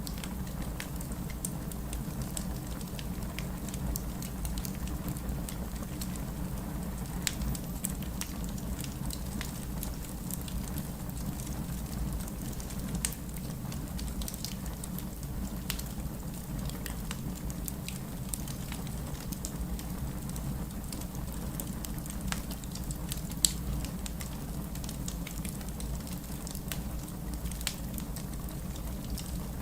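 Wood fire crackling with scattered sharp pops, one louder pop about three-quarters of the way through, over a steady low rumble of rain.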